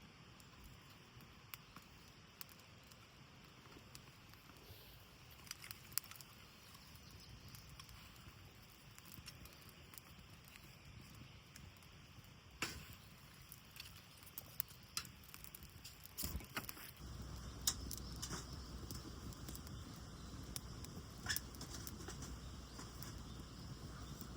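Scattered sharp clicks and crackles from fire-lighting with flint and steel. A low, steady rushing joins in about two-thirds of the way through.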